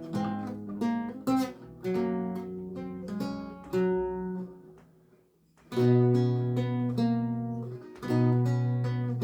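Solo lute music: plucked notes and chords that die away about five seconds in, then resume with two strong, ringing low chords.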